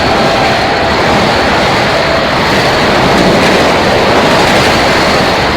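Train passing at speed: a loud, steady rushing roar of wheels and air. A horn note dies away in the first two seconds.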